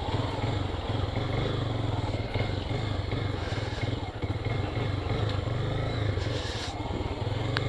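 Small single-cylinder four-stroke motorcycle engine running steadily while riding, its low note holding an even pace with a brief dip about four seconds in.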